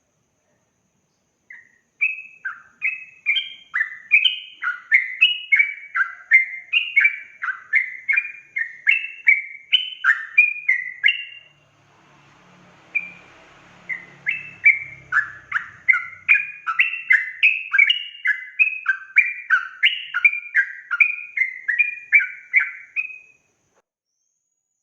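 Yellow-vented bulbul singing a fast run of short, bubbly notes, a few a second, breaking off for about two seconds midway and then resuming.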